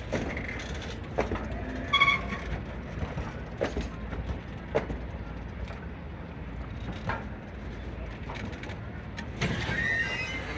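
Railway equipment rumbling at low speed with scattered clanks and knocks, and a short metallic squeal about two seconds in.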